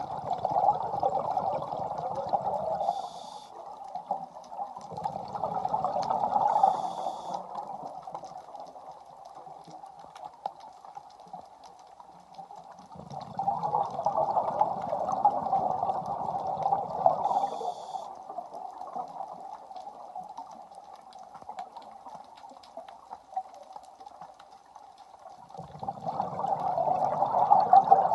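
Scuba diver breathing underwater through a regulator: four long gushes of exhaled bubbles, with a brief high hiss after three of them, over a steady underwater noise.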